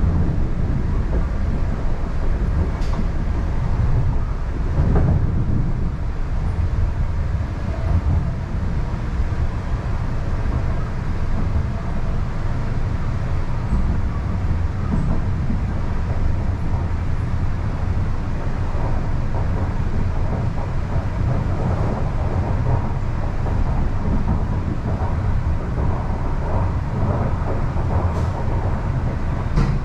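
An MTR East Rail line R-Train electric multiple unit running at speed, heard from inside the car: a steady low rumble of wheels on rail, with a few brief knocks.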